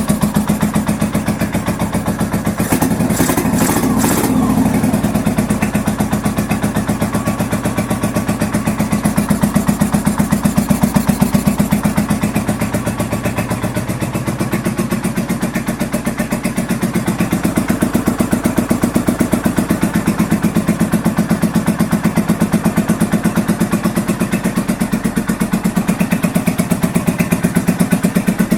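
1983 Honda VT750 Shadow's liquid-cooled V-twin running steadily on choke, its top end freshly rebuilt. A few sharp clicks come through about three seconds in.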